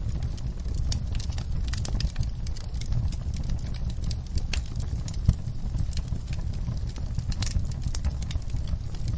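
Wood fire in a fireplace crackling, with irregular sharp pops over a steady low rumble of the flames; one louder pop about five seconds in.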